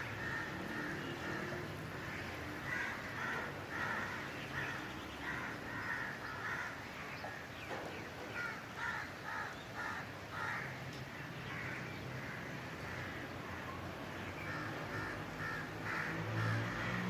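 Birds calling: short harsh calls repeated in bouts, several a second, pausing for a few seconds midway.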